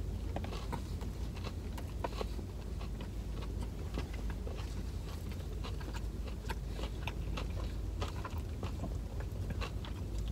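A person biting and chewing a breaded fried chicken sandwich close to the microphone: soft crunches and wet mouth clicks scattered throughout, over a steady low hum.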